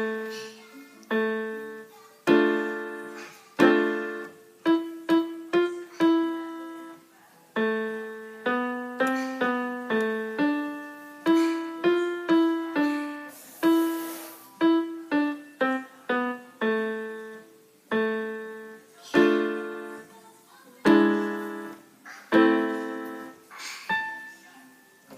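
Piano played by a young child: a simple waltz of single notes and chords, each note struck and dying away, with a brief pause about a third of the way through.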